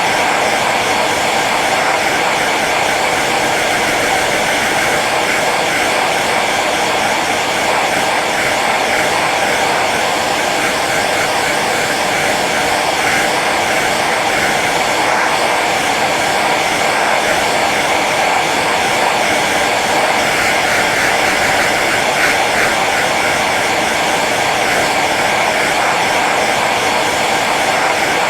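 Hair dryer running steadily on its low setting, an even rushing hiss of air over the fan's hum.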